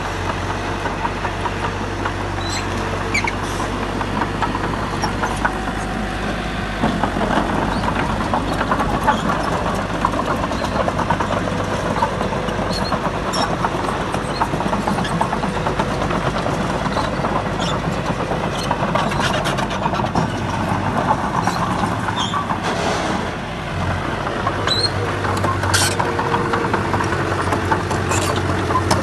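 Heavy diesel construction machinery running steadily, with the engine working harder and a rougher, rattling noise joining it from about seven seconds in.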